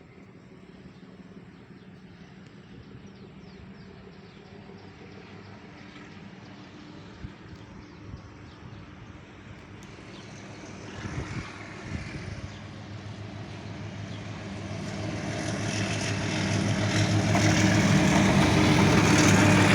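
A motor engine running at a steady pitch, growing steadily louder through the second half as it comes closer.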